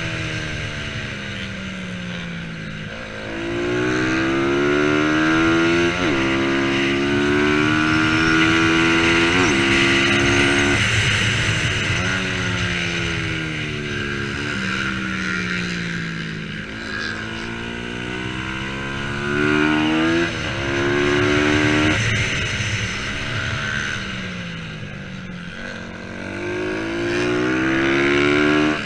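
Single-cylinder Bajaj Pulsar 200 NS engine at race pace. It revs up through the gears, with a sharp drop in pitch at each upshift about 6, 9.5 and 11 seconds in. The pitch then falls as it slows for a corner, and the cycle repeats twice more: accelerating hard out of corners and braking into them on a lap.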